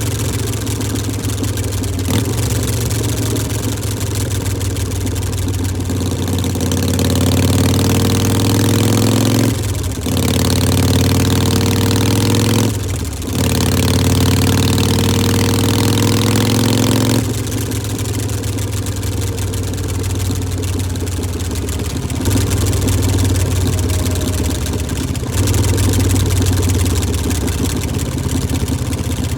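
2018 Harley-Davidson Iron 1200's air-cooled V-twin running through Vance & Hines Shortshots exhaust pipes. It idles, is held at higher revs from about six seconds in with two brief drops around ten and thirteen seconds, and settles back to idle at about seventeen seconds.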